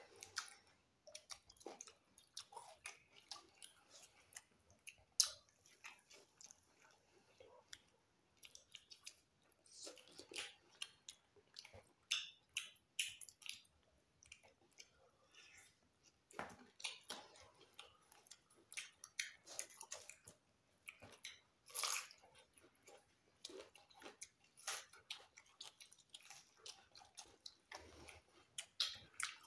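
Faint eating sounds: two people chewing and smacking their lips as they eat rice and curry with their hands, a steady irregular string of short wet clicks.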